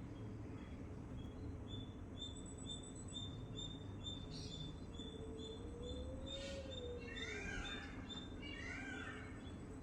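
Birds chirping: one bird repeats a short high note about twice a second throughout, and louder quick chirps come in the second half. About halfway through, a lower drawn-out note rises and falls for a couple of seconds, over a steady low background hum.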